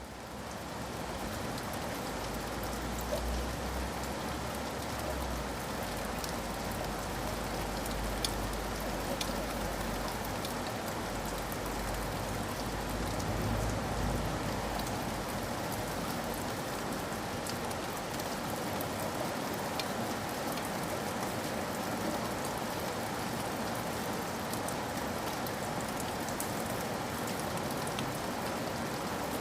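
Steady rain falling, with scattered sharp ticks of single drops. It fades in over the first second, and a low rumble runs under the first half.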